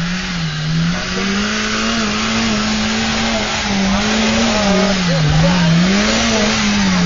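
Small off-road 4x4's engine revving hard under load as it climbs a steep muddy slope, its pitch rising and falling again and again, with a steady hiss over it.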